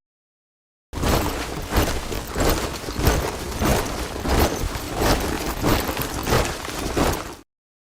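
Boots of a column of soldiers marching in step, a steady tramp of about one and a half strides a second. It starts about a second in, after dead silence, and cuts off suddenly shortly before the end.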